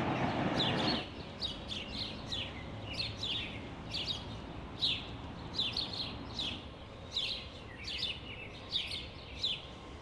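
Small birds chirping over and over, short falling notes about two or three a second. A steady rushing noise under them cuts off about a second in.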